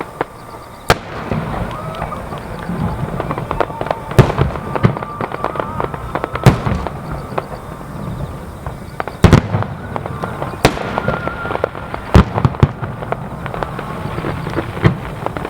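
Aerial fireworks display: six loud shell bursts a couple of seconds apart, with smaller crackling pops between them.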